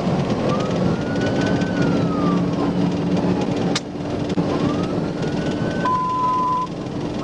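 Police siren wailing in slow rising and falling sweeps over loud road and engine noise from inside the speeding patrol car during a high-speed pursuit. A short steady beep sounds about six seconds in.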